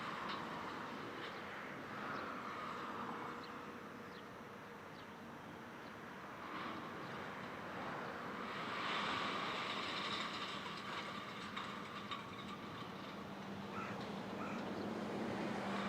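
Freight train hauled by an EH500 electric locomotive running past, with a steady rolling rumble and sharp wheel clicks over the rail joints. It grows louder about halfway through.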